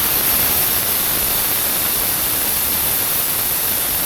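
Air hissing steadily out of a car tyre as it is deflated.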